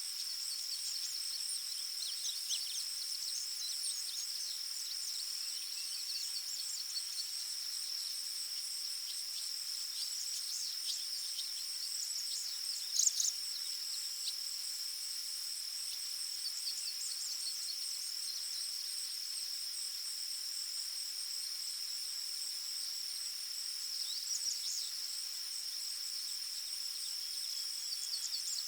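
Forest ambience: a steady high-pitched insect trill, with short bird chirps scattered over it and one louder call about halfway through.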